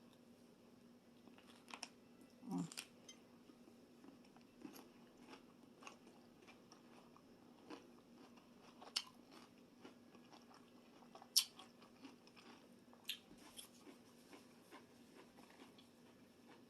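Close-up eating sounds: faint biting and chewing of a raw cucumber boat salad topped with croutons and bacon, with a few sharper crunches scattered through.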